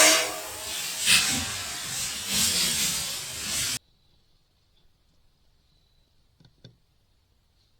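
Loud, steady rushing hiss with a few swells for nearly four seconds, then it cuts off abruptly to near silence, leaving a faint thin high whine and two soft clicks.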